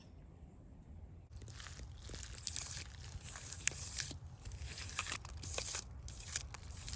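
Dry leaves crunching and crinkling close to the microphone in dense, irregular crackles, starting about a second in after a faint high chirp.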